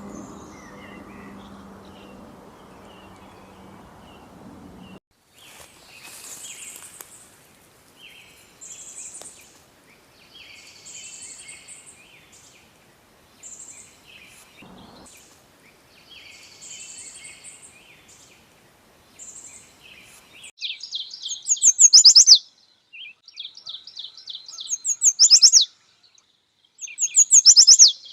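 Songbirds singing: first a low background hiss with faint chirps, then a bird repeating short, high song phrases every second or two, and from about two-thirds of the way in, three loud bursts of rapid, high-pitched chirping trills.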